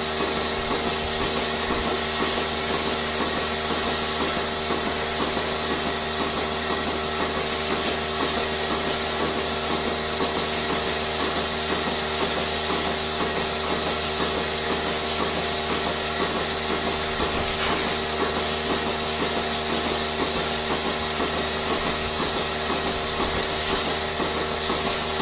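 A machine running steadily, with an even hiss over several fixed tones and a fast, regular pulsing underneath.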